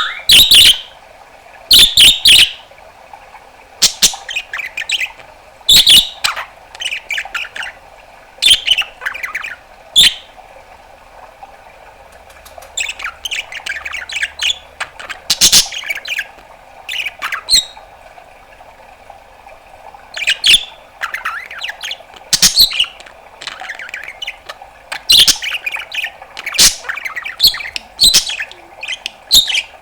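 Budgerigar calling: loud, short, sharp chirps and squawks every second or two, with quieter chattering between them.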